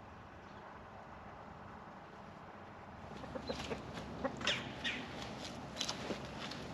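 Chickens clucking, a run of short, sharp calls starting about three seconds in, after a few seconds of faint background.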